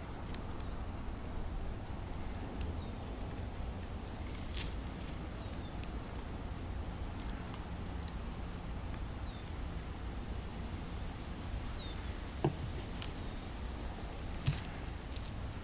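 Quiet outdoor background with a steady low hum, a few faint short chirps, and occasional light clicks.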